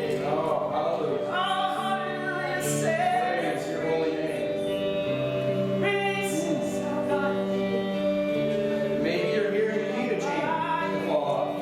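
Worship music: voices singing over long held chords.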